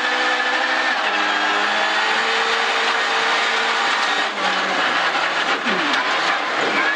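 Opel Corsa B rally car engine pulling hard at high revs, heard from inside the cabin over the rush of gravel under the tyres. The pitch steps at an upshift about a second in, then the driver lifts off and the revs fall through a downshift near the end.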